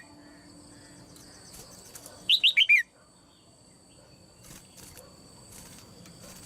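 Red-whiskered bulbul, a caged female, calling once: a quick phrase of about five notes, each falling in pitch, about two seconds in.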